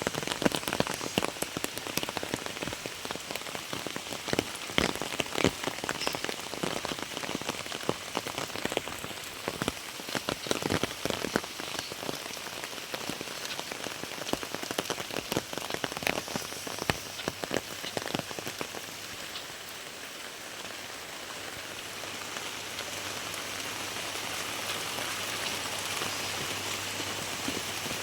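Heavy rain falling, with many sharp, close drop impacts through the first two-thirds, settling after that into a steadier, even hiss.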